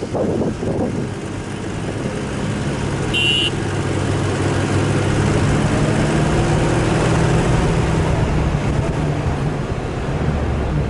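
Off-road vehicle's engine running steadily as it drives, with a hum and noise from the vehicle under way. A brief high-pitched tone sounds about three seconds in.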